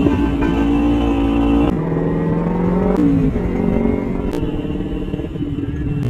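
Motorcycle engine running, its pitch shifting a few times.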